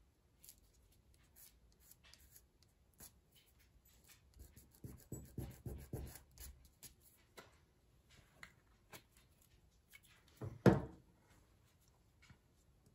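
Hands handling and rubbing paper pieces on a craft table, with scattered small clicks, a run of rubbing strokes midway and one louder knock near the end.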